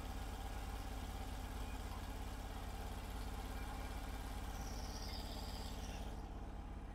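Norwood HD36 sawmill's engine idling steadily and low between cuts.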